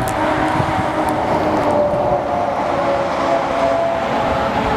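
Motorcycle running at steady road speed, a continuous engine drone whose pitch drifts slowly, under a rush of wind noise.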